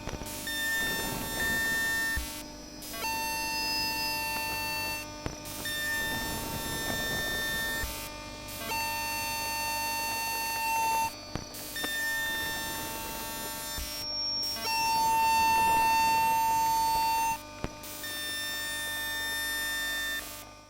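Mitsubishi GTO PWM chopper of an SMRT C151 train's DC traction motors, picked up electromagnetically by an inductor rather than a microphone: a steady whine near 1 kHz with a ladder of overtones, switching on and off in stretches of a few seconds. Brief dropouts cut in every two to three seconds, over a buzzy noise from the track equipment and the DC power rail. It fades out at the end.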